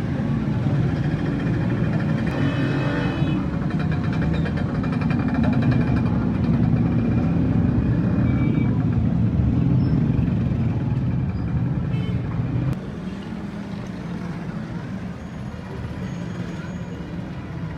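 Street traffic noise: a steady low engine rumble from passing vehicles, which drops suddenly to a quieter level about two-thirds of the way through.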